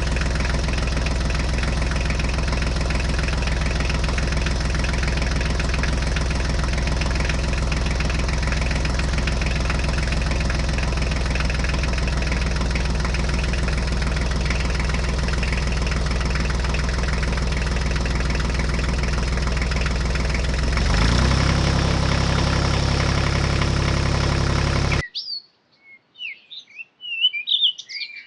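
An engine idling steadily, its note shifting a little about three-quarters of the way through, then cutting off abruptly. A few short bird chirps follow near the end.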